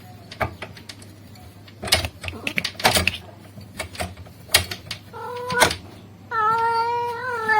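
Male cat calling to a female: a short call about five seconds in, then a long, steady-pitched call near the end. Scattered sharp clicks and knocks come before the calls.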